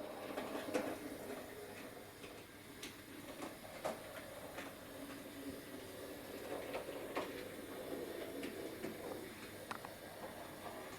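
Bachmann Class 03 model shunter running slowly on OO-gauge track: a faint steady whir from its small motor, with scattered light clicks as the wheels cross rail joints and Peco insulfrog points.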